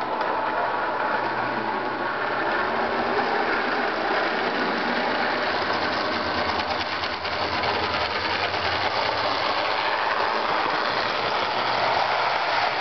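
HO scale model train, a Jouef Amtrak Turbo train, running on its original motor: a steady mechanical whir with a faint low hum.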